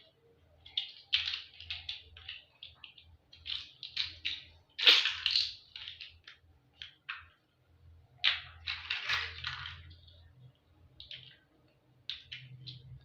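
Toy building blocks being handled, clicking and crackling in irregular bursts, with the loudest rattle about five seconds in.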